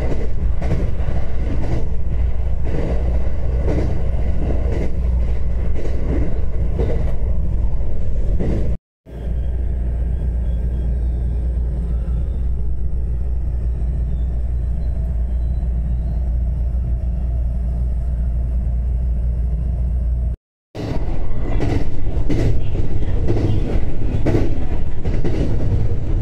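Interior of a moving electric train: a strong low rumble with wheel-on-rail clatter. There are two sudden cuts, at about 9 and 20 seconds in; between them is a smoother, steadier hum, and the clatter comes back after the second cut.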